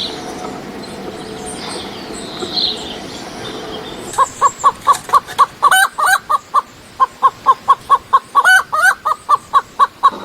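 A bird calling in a fast, even series of short, loud notes, about five a second, with a few higher two-part calls mixed in, starting about four seconds in over a faint outdoor background.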